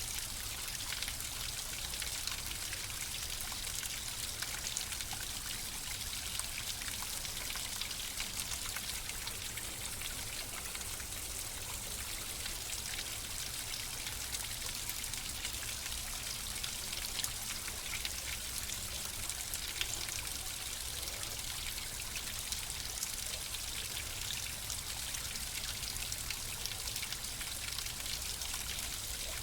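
Flowing water: a small stream running and trickling steadily, with many fine splashing drops.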